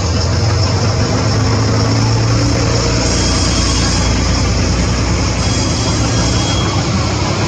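Moka Railway steam train running close by: a loud, steady rumble with a low engine-like hum, with no clear chuffing beat.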